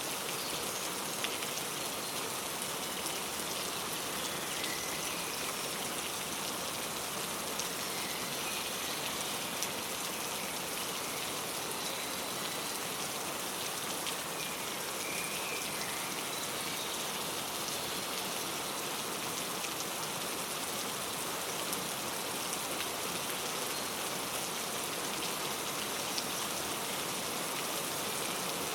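Steady rain falling, a continuous even patter of drops, with a few faint, short bird chirps here and there.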